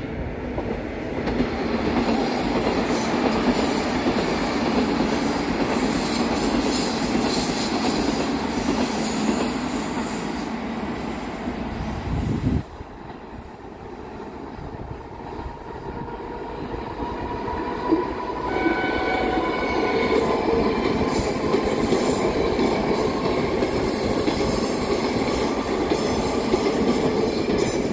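Train running on rails, a continuous rumble of wheels and cars. The noise drops abruptly about halfway through, then builds again with a faint high whine of a few steady tones.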